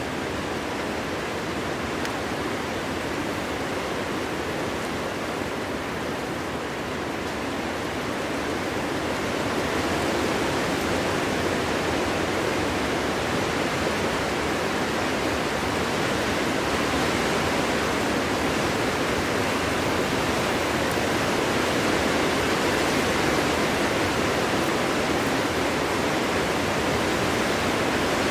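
Steady winter wind blowing, a dense even rushing that grows a little louder about ten seconds in.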